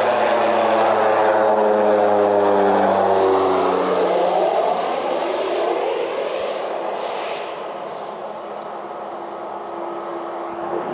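Crop duster airplane's engine passing low overhead, its pitch sliding down as it goes by about three seconds in, then fading away.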